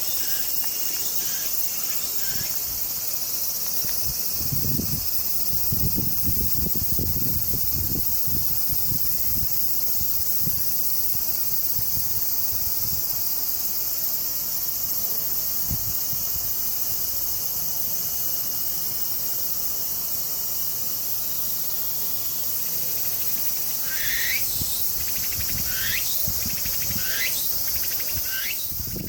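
Steady, high-pitched chorus of insects, typical of crickets or cicadas. Near the end a bird gives four short calls that fall in pitch, and low rumbles come and go a few seconds in.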